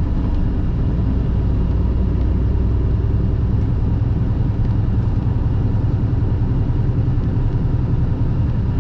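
Semi truck's diesel engine pulling steadily up a long grade with an empty trailer, its low drone mixed with road noise at an even level.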